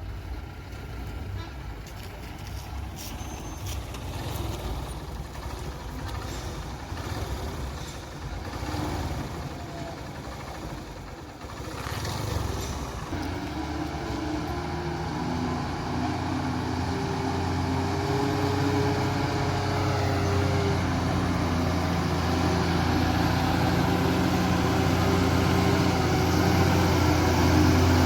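Heavy truck's diesel engine running under load, a steady hum that grows steadily louder through the second half, with mixed traffic noise before it.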